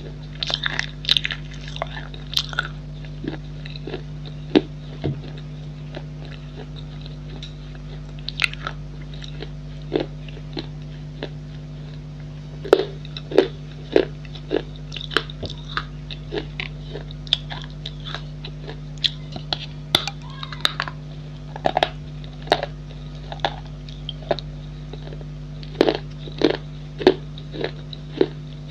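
Pieces of a baked clay pot bowl being bitten and chewed: sharp, irregular crunches, several to a few seconds apart, over a steady low hum.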